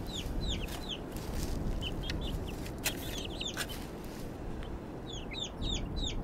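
Birds chirping in quick clusters of short, falling chirps over steady low background noise, with a couple of sharp clicks near the middle.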